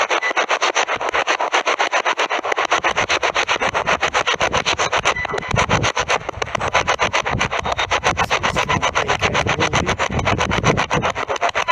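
Spirit box sweeping through radio stations, giving choppy bursts of static at about seven a second. Wind buffets the microphone from about three seconds in.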